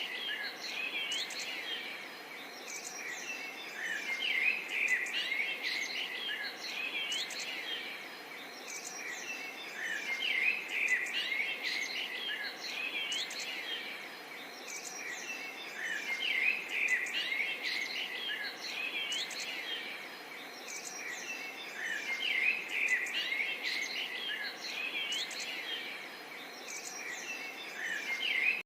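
A chorus of many small birds chirping and twittering together, with quick rising and falling notes. It swells and eases every five or six seconds over a steady background hiss.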